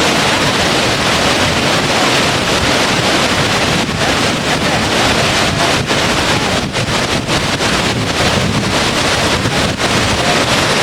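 Steady, loud rush of water, an even wash of noise with only slight dips in level.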